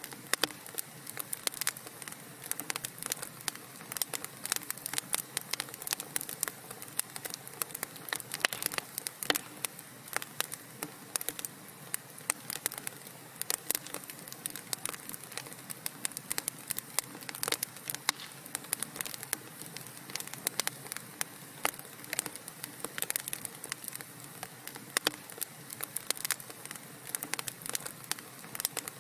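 Wood fire in a fireplace crackling, with dense, irregular pops and snaps over a soft steady hiss.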